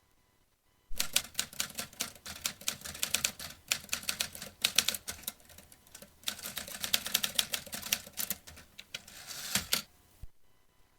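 Vintage typewriter being typed on: quick, irregular runs of sharp key strikes that start about a second in, ease briefly midway, and stop about a second before the end.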